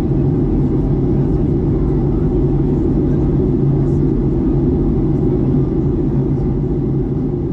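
Steady cabin roar inside a Boeing 737 MAX 8 in flight, the mix of engine noise and airflow heard from a passenger seat, with a low hum running under it.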